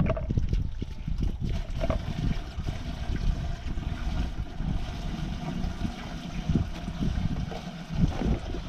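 Water from a garden hose running and trickling into a chicken waterer to refill it, with uneven low rumbling from wind on the microphone.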